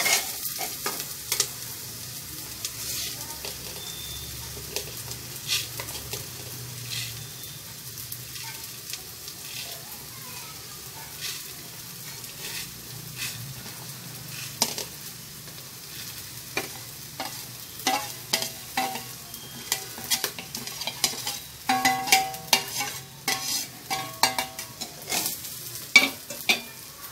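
Oil sizzling in an aluminium pressure cooker as washed rice is tipped onto fried onions and spices, with a metal spoon scraping and clinking against the steel plate and the pot. The clinks and scrapes come thicker near the end as the rice is stirred.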